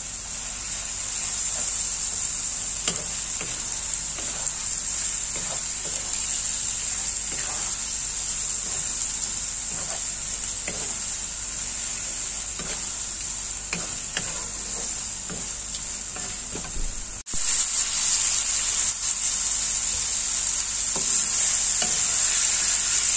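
Beef chunks frying and sizzling in spice paste in a stainless steel wok, stirred with a wooden spatula that scrapes the pan again and again. The sizzle breaks off suddenly about seventeen seconds in and comes back louder.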